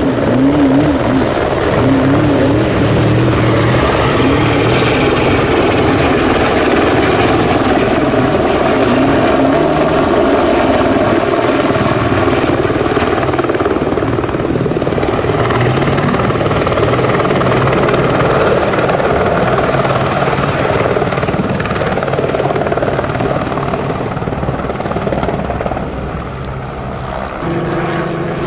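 Helicopter flying low overhead, its rotor and turbine noise steady and loud, easing off slightly near the end. About a second in, a race truck's engine is still heard fading away.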